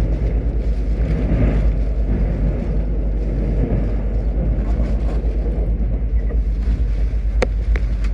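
Steady running rumble of a KTX-Cheongryong high-speed train heard from inside the passenger car, with a single sharp click near the end.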